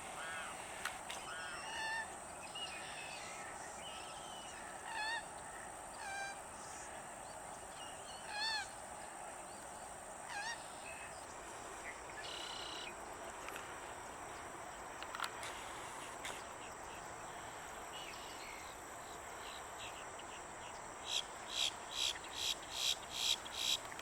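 Limpkin calling: a string of separate loud, wailing, honk-like calls, then near the end a fast series of repeated calls, about two or three a second.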